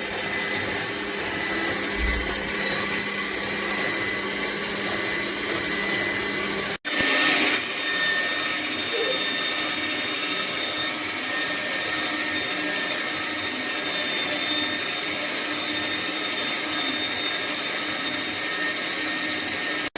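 Electric motor of an AMZCHEF cold-press juicer running with a steady whine, cutting out for an instant about seven seconds in.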